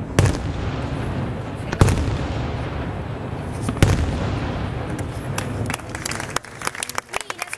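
Fireworks display: three loud booming shell bursts about two seconds apart, each trailing off in a long echoing rumble, followed near the end by a rapid patter of sharp pops.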